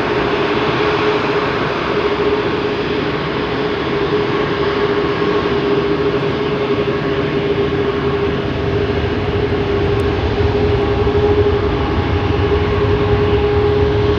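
Four-engine Airbus A340-600 jet engines running with a steady whine over a rushing noise; a low rumble grows a little stronger in the last few seconds.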